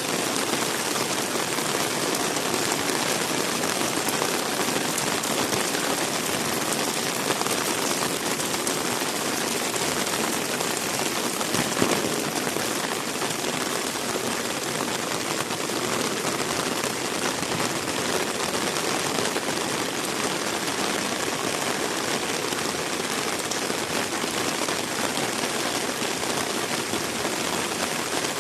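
Heavy rain falling, a steady even hiss of drops on wet ground. A single brief knock sounds a little before halfway through.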